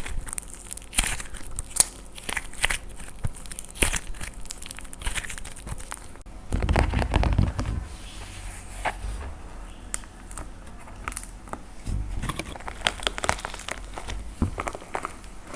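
Dried plaster clay being cracked and crushed by hand: a run of sharp crackles and crunches, thickening into a dense, louder crunching for about a second and a half, six and a half seconds in, then back to scattered cracks.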